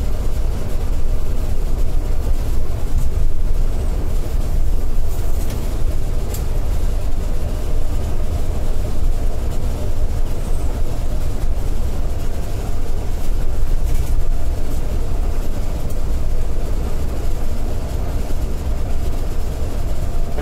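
Scania K410iB coach running at highway speed, a steady low rumble of engine, tyres and wind.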